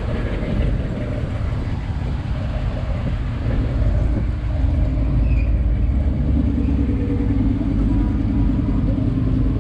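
A vehicle engine running with a steady low rumble that grows louder about four to five seconds in.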